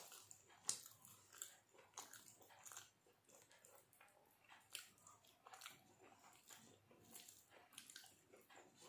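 Faint, irregular chewing and wet mouth clicks of a person eating a lunch of rice and spinach.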